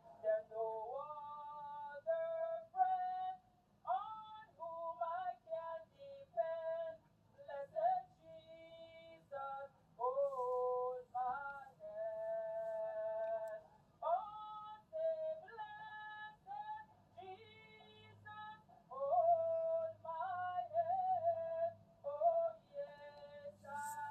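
A high female singing voice carrying a melody in short phrases of held and sliding notes.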